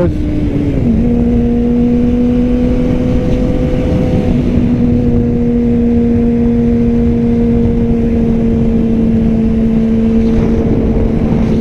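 Yamaha R6 600cc inline-four sportbike engine running at high, steady revs while cruising, with wind rushing over the microphone. Its pitch drops a little about a second in, then holds steady.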